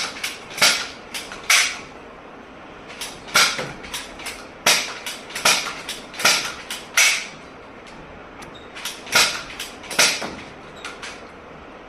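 Manual soft-bullet toy gun being cocked by pulling the slide back and fired again and again: a series of short, sharp plastic clacks, some in quick pairs.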